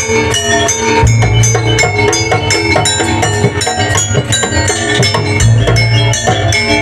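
Jaranan accompaniment music: an East Javanese gamelan-style ensemble of ringing metallic percussion and drums playing a dense, steady rhythm, with a strong low bass swelling twice.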